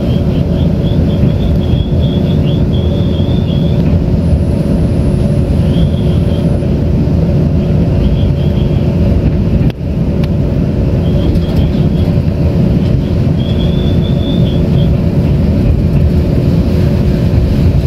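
Carriage interior of a Taiwan Railways Tze-Chiang limited express train running: a steady loud rumble with a constant hum, and short high-pitched squeals now and then.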